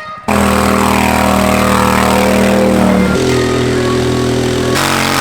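Engine of a modified lawn tractor running loudly at high, steady revs; its pitch shifts twice, a little after three seconds and near the end.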